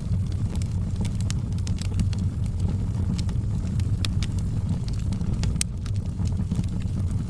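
Wood fire burning in a fireplace: irregular sharp crackles and pops, a few each second, over a steady low rumble from the flames.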